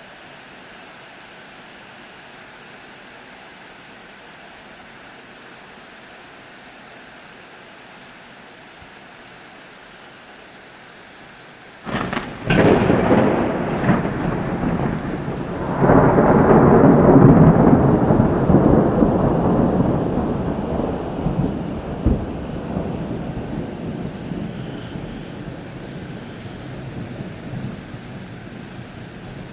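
Thunderstorm: steady rain, then about twelve seconds in a close thunderclap cracks sharply and breaks into a long rolling rumble that swells a few seconds later and slowly dies away, with one more crack partway through the fade.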